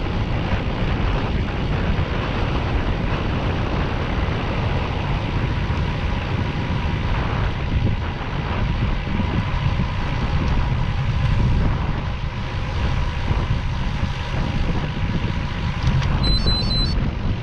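Steady low rumble of a motorcycle ride, engine and wind noise together. Near the end comes a quick run of short, high electronic beeps.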